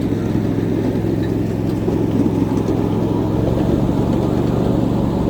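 A 7.5-inch gauge ride-on miniature train running steadily along its track, heard from aboard: a loud, even rumble of the locomotive and cars with a steady low hum.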